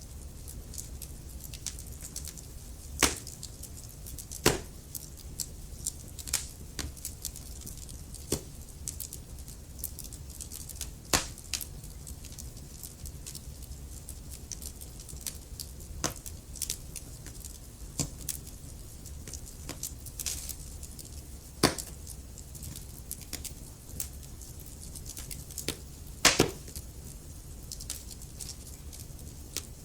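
Wood fire crackling in a fireplace: a steady stream of small irregular clicks over a low rumble, with a few louder sharp pops scattered through.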